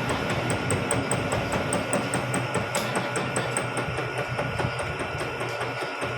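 Vertical milling machine running and cutting spur gear teeth: a steady motor hum under dense cutting noise, with a fast, regular ticking about five times a second.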